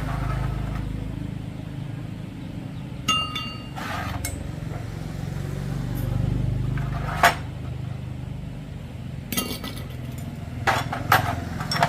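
Metal tools and parts clinking together about six times, one strike near the start ringing briefly with a clear tone, over a steady low hum.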